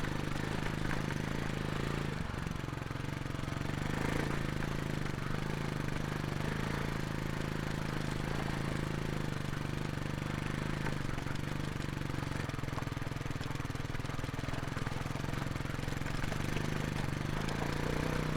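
Kawasaki KLX300 dirt bike's single-cylinder four-stroke engine running at low, fairly steady revs while the bike crawls slowly through a section of heavy rocks.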